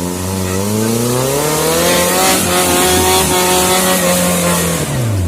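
Suzuki Jimny 4x4's engine revving hard under load. Its pitch climbs over the first two seconds and holds high with a rushing hiss, then drops away near the end.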